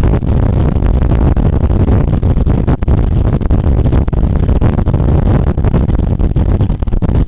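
Wind rushing over the microphone of a camera carried on a racing bicycle at speed: a loud, steady rumble that flutters constantly.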